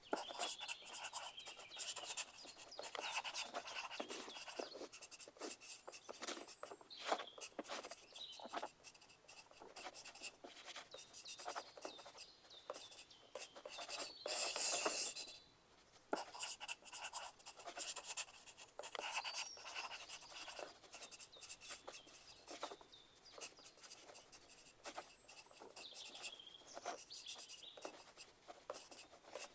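Pencil writing on paper: irregular scratching strokes with short pauses between them, and a denser, louder run of writing about halfway through.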